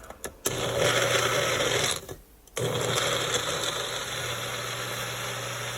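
Blender running on frozen fruit and spinach for a smoothie, in two runs: a short one of about a second and a half, a brief stop, then a longer steady run.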